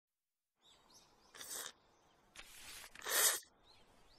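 Faint birds chirping, with three short soft rustling swishes, the loudest about three seconds in.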